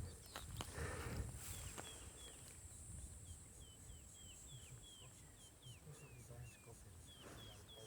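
A bird calling over and over in short, high, downward-slurred chirps, about two a second, against a steady high-pitched drone. Low rumbling in the first second or so.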